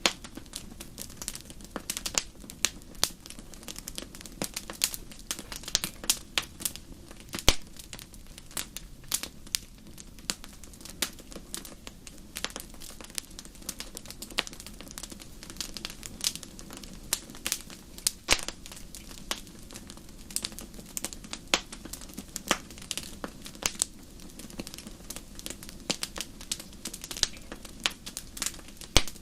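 Wood fire crackling: irregular sharp pops and snaps, a few much louder than the rest, over a steady low rumble.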